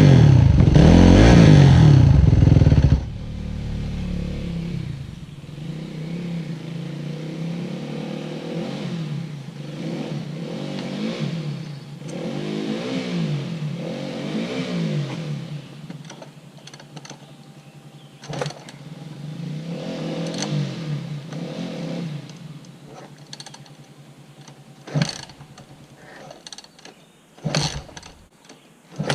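Dirt bike engine revving hard close by for about three seconds, then quieter, revving up and down over and over, with a few sharp knocks near the end.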